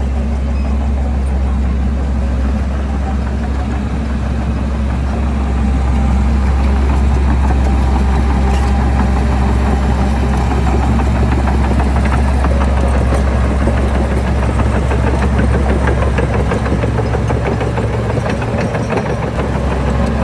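Heavy construction machine's diesel engine running steadily with a strong low hum, getting a little louder about six seconds in.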